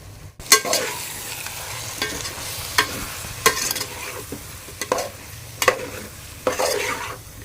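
Chicken and spice masala sizzling as they fry in oil in a pan, while a spoon stirs and scrapes against the pan with a sharp stroke about every second. The frying starts abruptly about half a second in.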